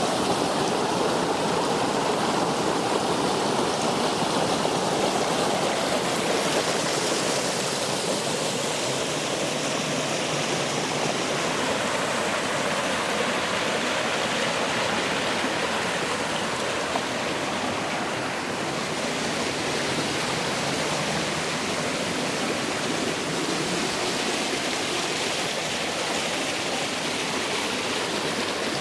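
Waterfall and stream water rushing steadily, an even, unbroken noise.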